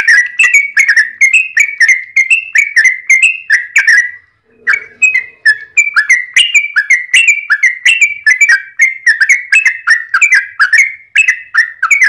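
Yellow-vented bulbul (trucukan) calling in a long, fast run of short chirping notes, about three a second, with a brief pause about four seconds in before the run resumes.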